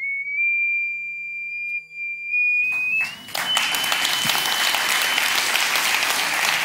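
A pure tone from a frequency generator driving a sand-covered metal Chladni plate, climbing slowly in pitch in small steps. About three seconds in, audience applause breaks out and becomes the loudest sound; the tone jumps higher and fades out under it.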